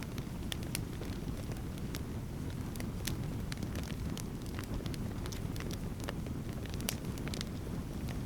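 Wood campfire crackling: frequent sharp, irregular pops and snaps over a steady low rumble.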